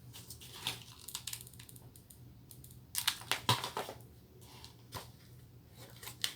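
Quiet handling noises of craft materials: scattered clicks, crinkles and rustles, busiest in a short cluster about three to four seconds in.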